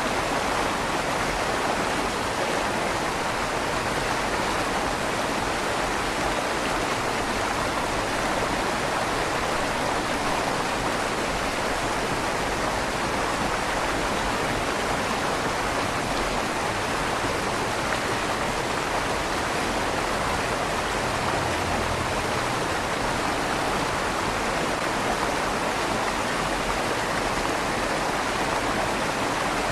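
River water flowing steadily through a stone tunnel under a bridge, a constant rushing with a slight echo off the stone walls.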